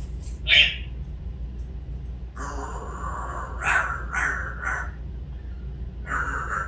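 A pet bird making harsh, rasping calls: one short call about half a second in, a run of three rough calls between about two and a half and five seconds, and another near the end.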